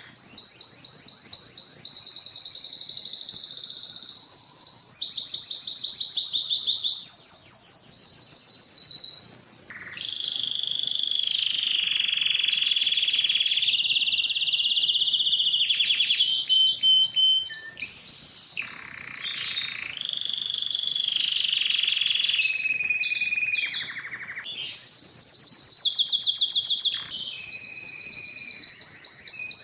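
Domestic canary singing a long, continuous high-pitched song of rapid trills and rolling phrases, with a brief pause about nine seconds in.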